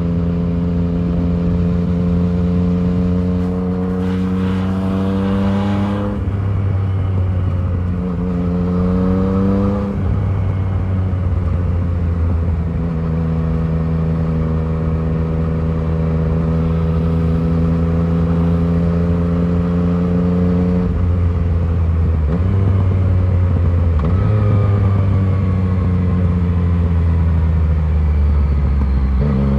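Yamaha MT-09's inline three-cylinder engine through an Arrow full-system exhaust, pulling through the gears: the pitch climbs and drops sharply at upshifts about six and ten seconds in, then holds fairly steady for a long stretch before changing again several times near the end.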